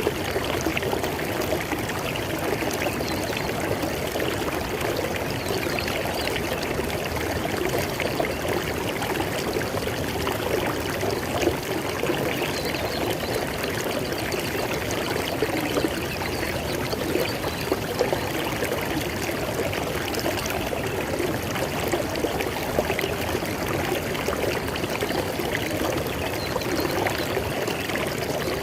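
River water flowing over rocks: a steady rushing and burbling with small splashes, unchanging throughout.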